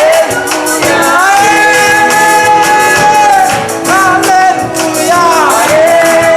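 Live gospel worship song: voices hold long notes that slide between pitches, over a steady beat of high percussion.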